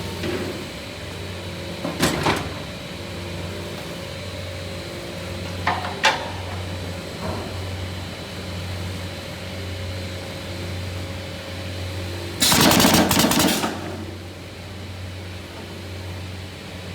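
Automatic picture-frame corner-joining machine at work: a steady low hum, a few sharp knocks as mouldings are handled and clamped, then a loud noisy burst lasting about a second about twelve seconds in.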